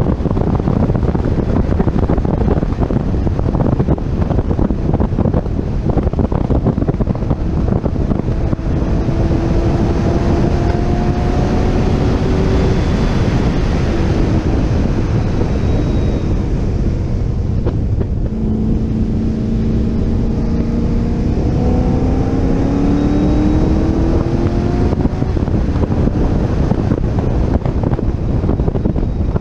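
C6 Corvette Z06's 7.0-litre LS7 V8 pulling hard down a straight, under heavy wind noise on the microphone. The engine note climbs, drops with an upshift about halfway through, then climbs again.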